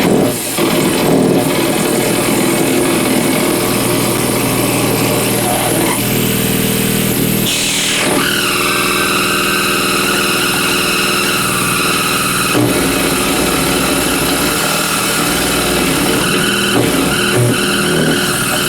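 Amplified electrical interference from compact fluorescent bulbs on dimmer switches, picked up by exposed guitar cables. The bulbs cannot dim properly and flicker, which gives a loud, dense buzz. About eight seconds in, a falling sweep settles into steady piercing whistling tones, and a sharp click follows a few seconds later.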